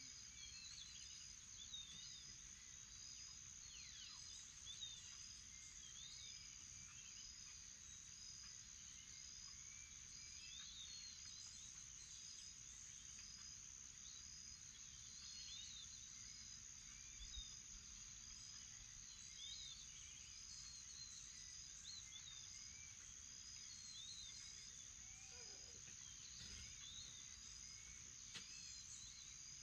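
Faint morning chorus of birds and insects: a steady high insect drone, a short high chirp repeating about once a second, and scattered bird calls and whistles over it.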